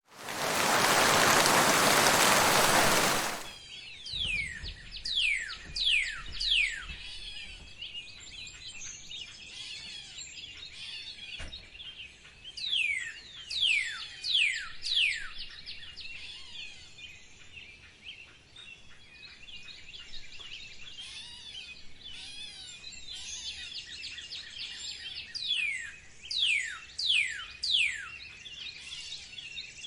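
Wild birds calling: bouts of three or four sharp, quickly falling calls come several times, over a steady background of fainter chirping from other birds. The first few seconds hold a loud, even hiss.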